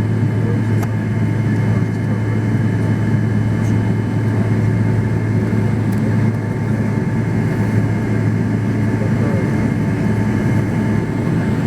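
Steady airliner cabin noise on the ground after landing: a constant low engine hum with a few fixed higher tones and the rush of the ventilation.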